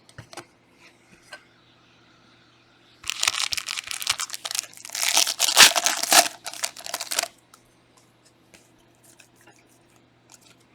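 Panini Prizm trading-card pack wrapper being torn open and crinkled, in two stretches of a couple of seconds each. Light clicks of handling come before and after.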